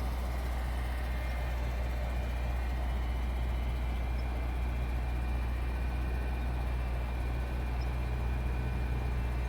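Subaru car engine idling steadily shortly after a morning cold start.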